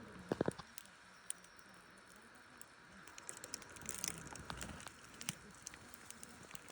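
Wood fire crackling in a fire stand: scattered sharp pops and ticks over a steady low hiss, with a cluster of loud snaps about half a second in.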